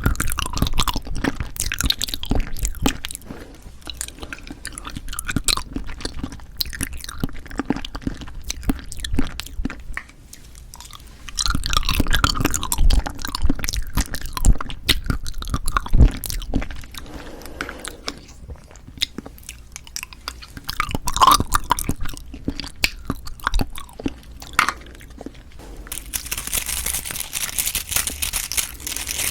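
Close-miked chewing, biting and squelching of cheonhyehyang citrus cup jelly, in irregular mouthfuls with short pauses. A stretch of crinkling comes in near the end.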